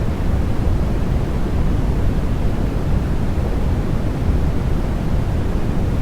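Steady, unbroken baby-sleep noise, sold as white noise but deep and rumbly in tone, much heavier in the bass than in the highs, with no changes or rhythm.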